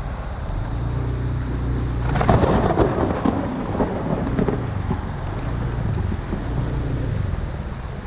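Heavy tropical rain over a steady low rumble, swelling into a louder crackling surge about two seconds in that fades back over the next couple of seconds.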